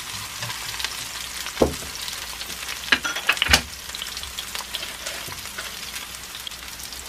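Sliced green onion and onion sizzling gently in olive oil in a frying pan over low heat, the early stage of making scallion oil. A few sharp knocks of a stirring utensil against the pan come between about one and a half and three and a half seconds in.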